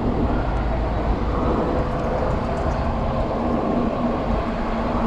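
Steady wind and road noise from riding a Juiced City Scrambler electric bike through city traffic. A faint low steady hum joins it from about a second and a half in.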